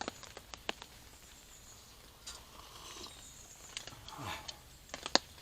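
A person sipping hot coffee after a toast, with scattered small ticks and taps and a brief soft falling sound about four seconds in.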